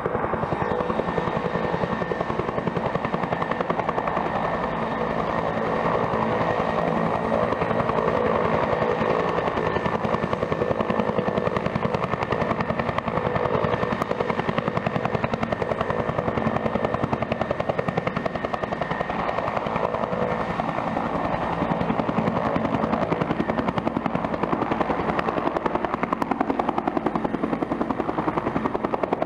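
Turbine helicopter running with its main rotor turning: a fast, even rotor chop with a thin, high turbine whine, holding steady.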